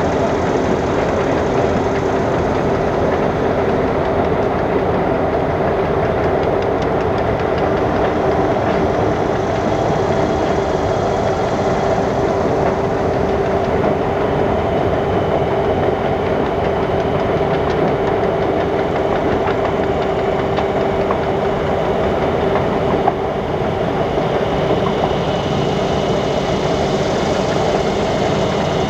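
Excursion train's cars rolling steadily past on the rails, with a steady humming tone running through the noise of the wheels.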